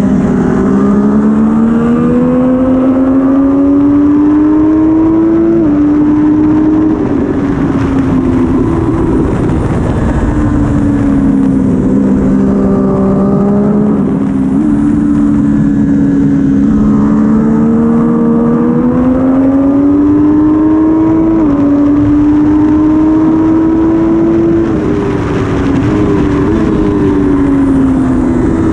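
Triumph Daytona 675R's inline three-cylinder engine ridden hard on track, heard from on board. Revs climb in long pulls, broken by quick drops at upshifts about five seconds in and again near the end. In between they fall away in steps at the downshifts.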